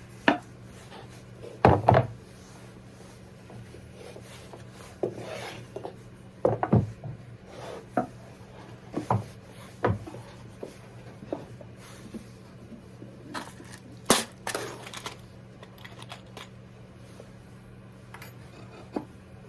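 Small metal hardware and tools handled against a wooden birdhouse: scattered light clicks, taps and knocks at irregular intervals, with a steady low hum underneath.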